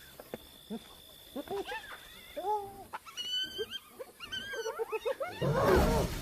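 A pack of hyenas squealing and giggling at a kill: many short calls that rise and fall in pitch, overlapping. Near the end the din gets much louder, with a low rumble beneath the squeals.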